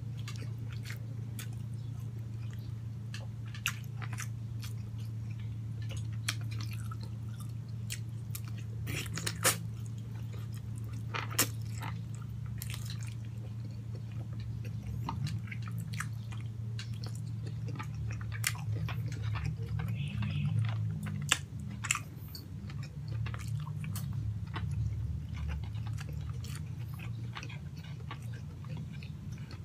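Close-up chewing of braised pork hock, with many sharp wet mouth clicks and lip smacks scattered through it, over a steady low hum.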